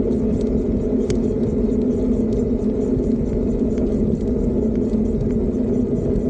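Steady rumble of riding a Fiido D3 Pro electric bike, the ride noise from the bike rolling along, with faint small clicks and rattles scattered through it.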